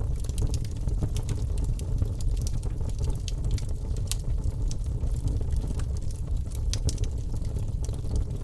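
Wood fire crackling in a fireplace: frequent sharp pops and crackles over a steady low rumble of the flames.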